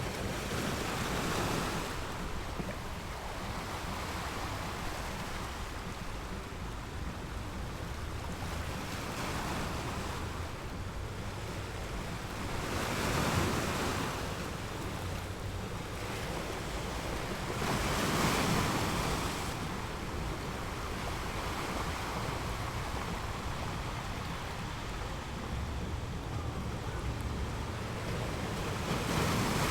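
North Sea surf breaking on a sandy beach: a continuous wash of waves with four louder breakers surging, about a second in, around the middle twice, and at the end, over a constant low rumble.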